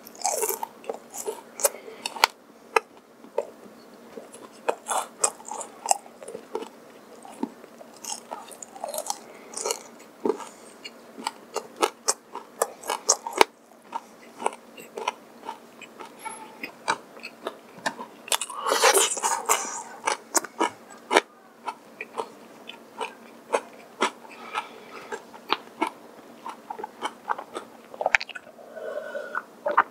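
Close-up chewing of a mouthful of crispy fried chicken: many small irregular crunches and wet mouth sounds. Near the end, swallowing sounds from a drink taken from a glass.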